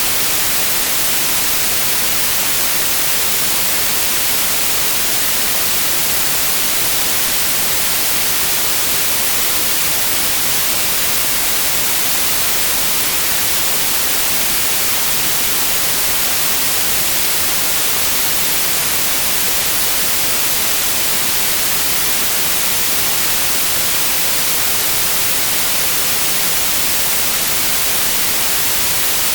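Steady white noise: an even, unbroken hiss, brightest in the high frequencies, with no change throughout.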